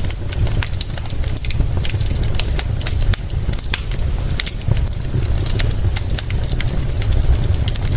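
Wood fire crackling, with frequent irregular sharp pops over a steady low rumble and a faint hiss of rain.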